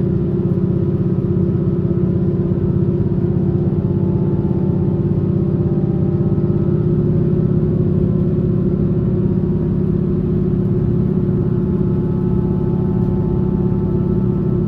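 Taiwan Railway passenger train heard from inside the carriage while under way: a steady low rumble with a drive hum whose pitch drifts slowly as the speed changes.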